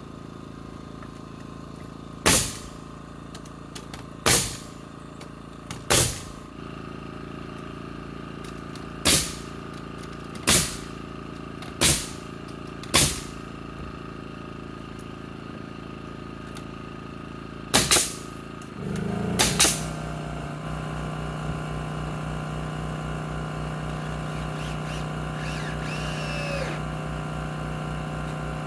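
Framing nailer driving nails into brace lumber: about nine sharp single shots, a second or more apart, over a steady motor hum. About two-thirds of the way through, a motor starts and runs on with a steady drone.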